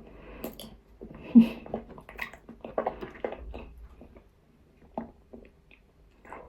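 Close-up crunching and chewing of nzu, the dry edible clay also called calabash chalk: irregular crisp crunches, busiest through the first three and a half seconds, the loudest about a second and a half in, then only a few sparse crunches, one about five seconds in.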